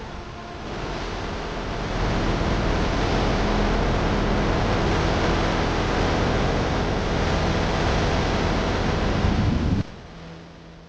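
A steady rushing noise, swelling in over the first two seconds and then holding, which cuts off abruptly near the end, leaving a faint low hum with a few steady tones.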